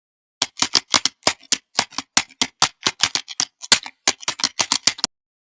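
A quick, uneven series of sharp clicks, about five a second, that starts about half a second in and stops abruptly near the end.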